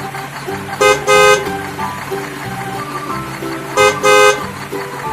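Vehicle horn honking over background music: a short toot followed at once by a longer one, twice, about three seconds apart.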